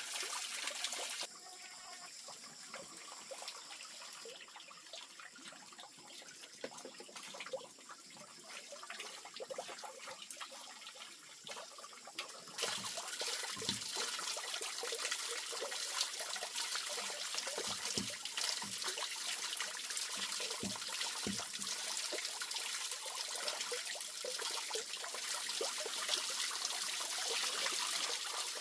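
Water running and trickling, with abrupt changes about a second in and again about twelve seconds in. A few soft knocks in the second half.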